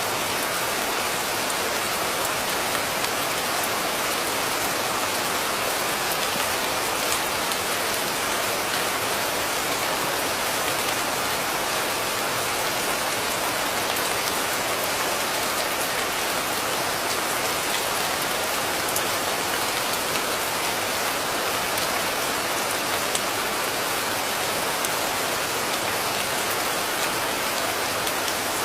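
Steady rain falling: a dense, even hiss with scattered ticks of single drops, unchanging throughout.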